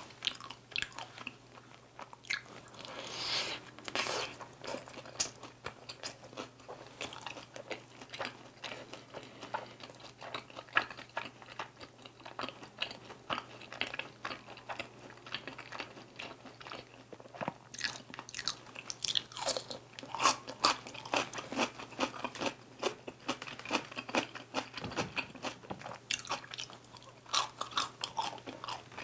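Chewing and biting on Korean dakgangjeong, crisp-fried chicken bites in a sticky sweet-spicy glaze: irregular crunching and mouth sounds, with a short lull about sixteen seconds in.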